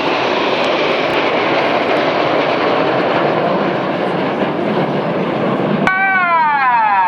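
Jet roar from the Red Arrows' BAE Hawk jets of the synchro pair making a low pass. Near the end a whine with several pitches drops steadily as the jets pass and move away.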